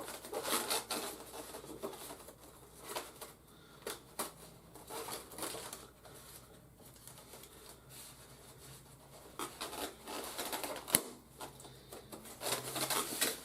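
Cutting the seal on a cardboard toy box and handling the packaging: irregular scrapes, rustles and small clicks, with one sharp click about eleven seconds in.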